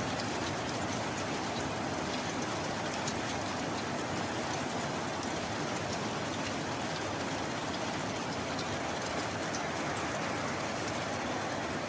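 Steady rain: a dense, even hiss with scattered ticks of individual drops.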